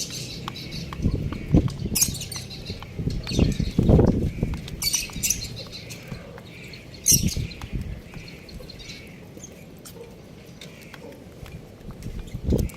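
Young chickens cheeping in short bursts while pecking at rice, with many small taps and a few low thumps, the loudest about four seconds in.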